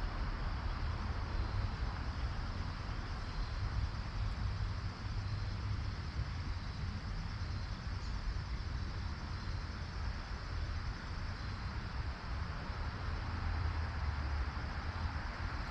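Steady rush of a creek's running water with a low rumble underneath, and faint, repeated high insect chirping.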